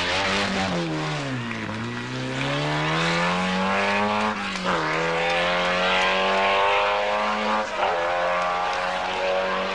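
Rally car engine dropping in revs into a bend, then accelerating hard away through the gears. The revs climb and fall back sharply at two upshifts, about four and a half and seven and a half seconds in.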